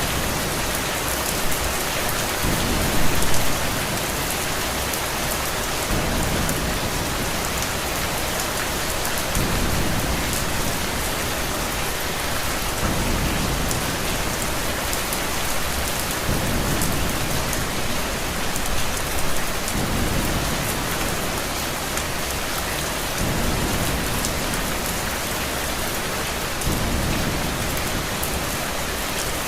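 Steady heavy rain with low thunder rumbles swelling and fading every few seconds.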